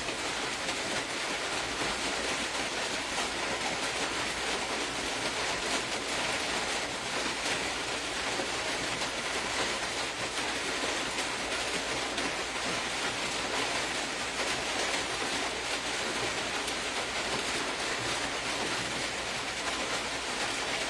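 Steady, even hiss of background noise with faint scattered ticks, unchanged throughout.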